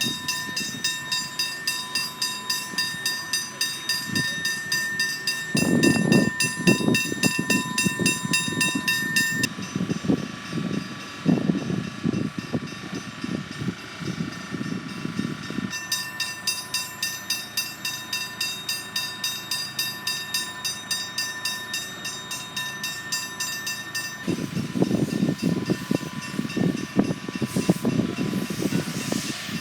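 Level crossing's electronic warning bell ringing steadily about twice a second, while a train's low rumble comes and goes in stretches.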